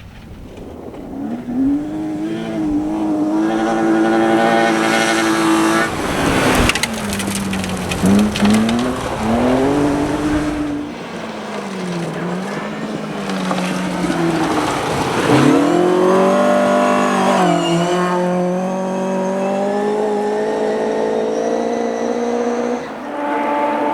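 Rally car engine at high revs, its pitch repeatedly dropping and climbing again as the driver shifts gears and lifts off the throttle, with tyre noise. There is a sharp, noisy burst about six and a half seconds in. The sound changes abruptly near the end.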